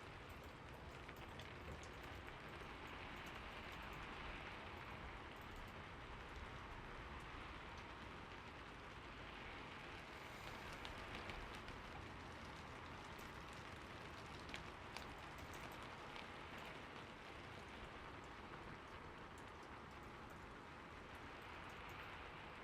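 Steady rain falling, an even hiss with a few louder individual drops tapping out about halfway through.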